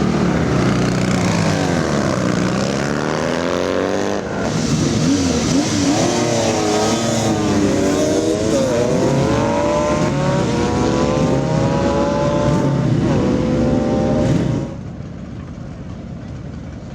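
Classic sprint motorcycle engine revving hard and accelerating, its pitch climbing and breaking repeatedly as it changes gear. The sound drops much quieter near the end.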